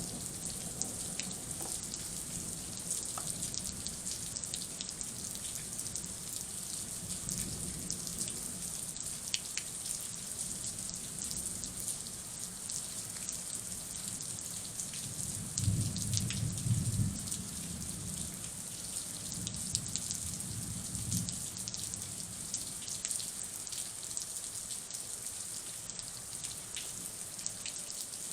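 Heavy rain falling steadily during a thunderstorm, a continuous hiss with scattered drop ticks. About halfway through, a low rumble swells briefly.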